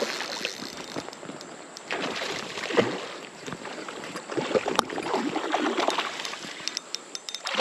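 Water splashing irregularly over the steady rush of a creek, as a trout is handled in the shallows.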